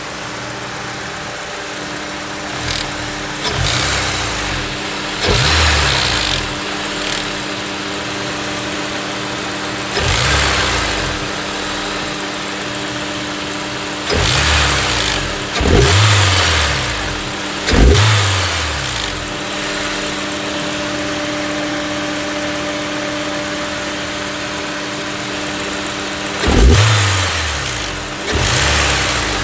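Honda S2000 engine idling steadily and revved in short throttle blips about nine times. The owner hears a weird clicking from the right side of the engine and cannot diagnose its cause.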